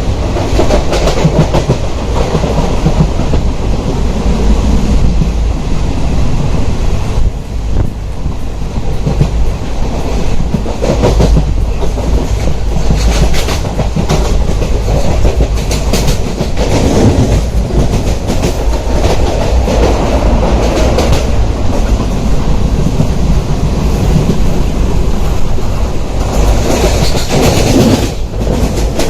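Moving train running along the track: a steady heavy rumble with the wheels clattering over rail joints.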